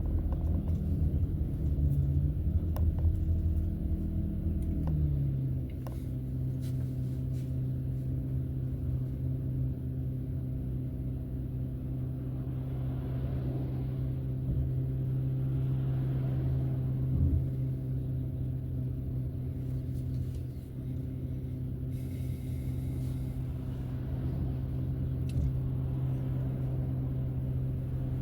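Car engine and road rumble heard from inside the cabin while driving, with a steady low hum that shifts up in pitch about five seconds in.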